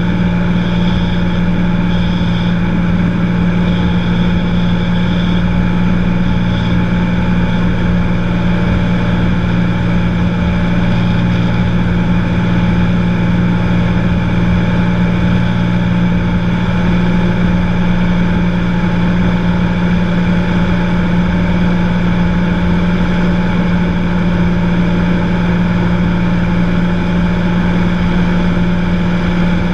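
Cessna 182 single-engine piston aircraft in flight: the engine and propeller drone steadily at constant power, with rushing airflow noise.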